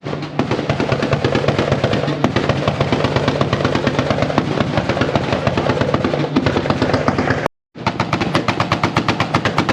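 Car engines held on two-step launch control at the rev limiter, firing a rapid, machine-gun-like stream of exhaust pops and bangs over a steady engine note. It cuts out briefly about seven and a half seconds in, then resumes.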